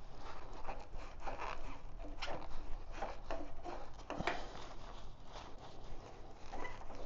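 Irregular small clicks, knocks and scrapes of hand work on motorcycle parts, with no steady machine sound.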